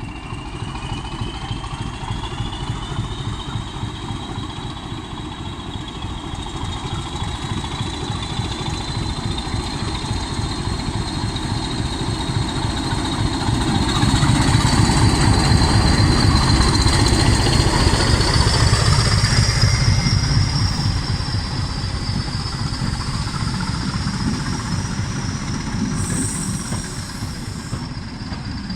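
Diesel-hauled train running past, a Class 20 locomotive's engine at the head and the prototype HST power car at the rear: a heavy engine rumble with a high whine that rises slowly in pitch. The sound is loudest for several seconds about halfway through, then eases.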